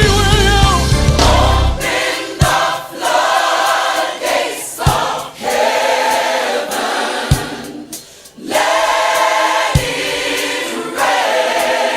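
Gospel choir singing with band accompaniment. About two seconds in, the bass and band drop away, leaving the choir's voices over a sharp beat that lands roughly every two and a half seconds.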